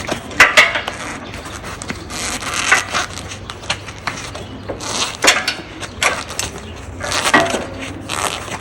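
Hands working on a minibike: scattered clicks, knocks and light clinks of small metal parts and tools being handled, with short rustling stretches between them.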